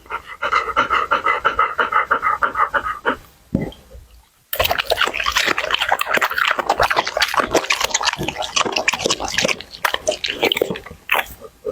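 A Labrador eating: quick, wet chewing and crunching sounds, close up. There is a short pause about three seconds in, then a denser, louder run of crunching.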